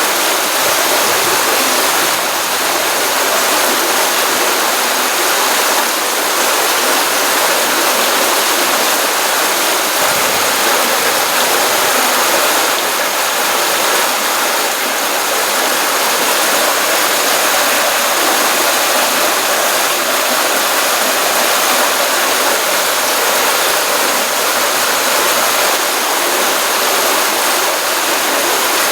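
Stream water running steadily over and around rocks in a continuous rush of flowing water.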